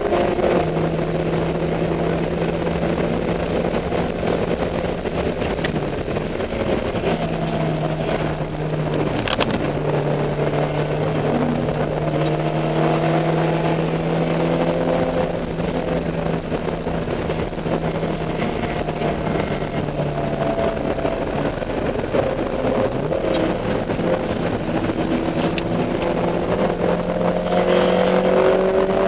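Dodge Neon race car's engine running hard on track, its pitch stepping and gliding up and down several times with throttle and gear changes. A single sharp click sounds about nine seconds in.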